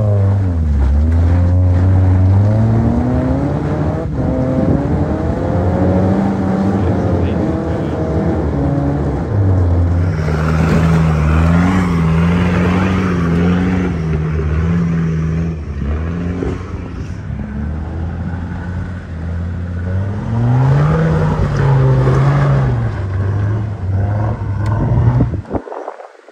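Four-wheel-drive vehicle's engine revving under load on a steep rocky hill climb. The revs rise and fall repeatedly, and the sound cuts off suddenly near the end.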